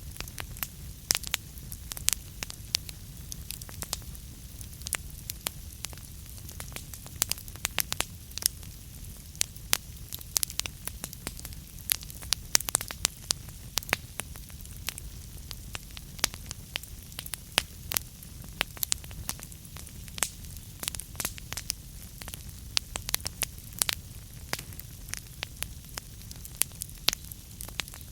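Wood logs burning in a fireplace, crackling with frequent irregular sharp pops over a steady low rumble of the flames.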